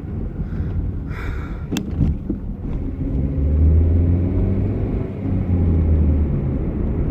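Car driving: a steady low engine and road rumble, with a brief rustle and a sharp click about a second and a half in, and the engine note growing louder from about halfway through for a few seconds.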